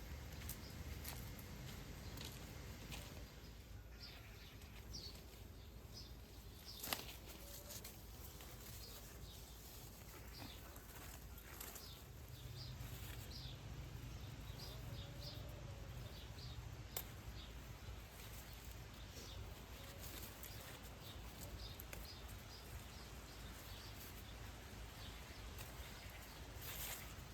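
Quiet outdoor ambience with scattered short bird chirps and a low background rumble, broken by a sharp click about a quarter of the way in and another past the middle.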